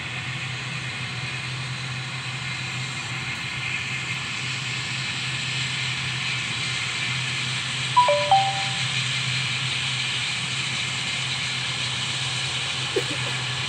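Steady running noise of a vehicle travelling along an asphalt road, with a low hum under it. A brief stepped tone sounds about eight seconds in.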